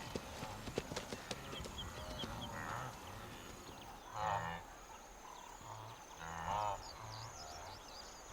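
Wildebeest herd calling: a series of separate nasal grunting calls, each about half a second long and a second or two apart. Faint ticks in the first couple of seconds.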